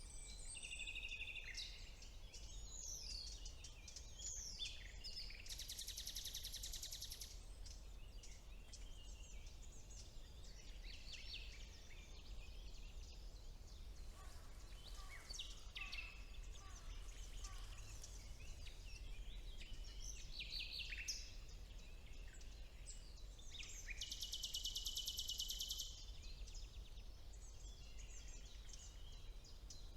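Several songbirds singing in woodland: overlapping whistled and sweeping phrases, with two loud rapid trills about six seconds in and again near the end. A faint steady low rumble runs underneath.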